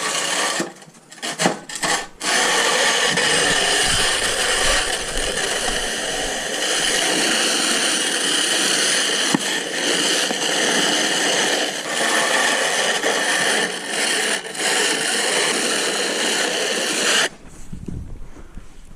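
Snow shovel scraping and pushing snow in a nearly continuous rasp, with a few short breaks at first, stopping near the end.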